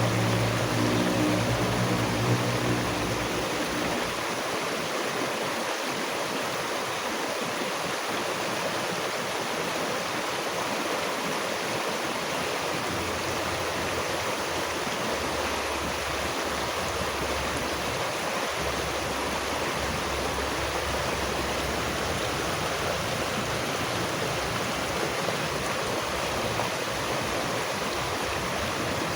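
Steady rushing of a stream, an even wash of flowing water with no pauses. A low hum sits under it for the first three seconds or so.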